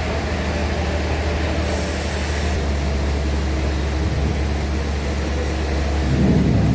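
Band sawmill machinery running with a steady low hum. A hiss joins about two seconds in, and a louder low rumble comes near the end.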